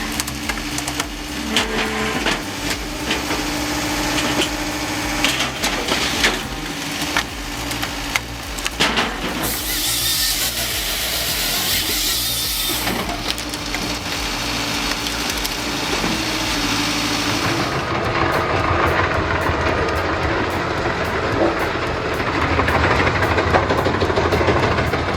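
Firewood processor working: its engine and hydraulics run steadily under scattered knocks and cracks of wood, with a loud hiss for a few seconds in the middle. About two-thirds of the way through, the sound changes abruptly to another machine running louder.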